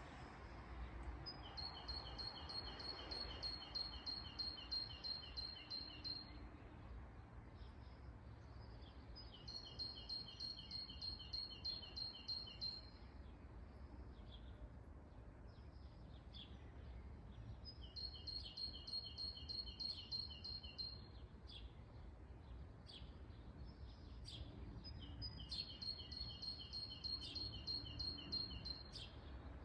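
A songbird singing a long, rapid trill of evenly spaced high notes, repeated four times, each song lasting about four to five seconds with pauses between. Shorter chirps from other birds fill the gaps over a steady low rumble.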